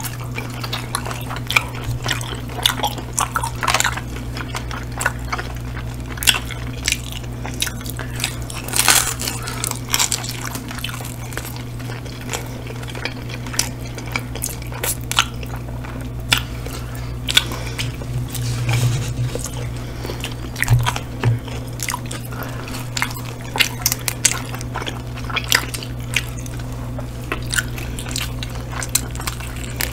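Close-miked chewing and biting of pizza and chicken wings: many small wet mouth clicks and crackles throughout, over a steady low hum.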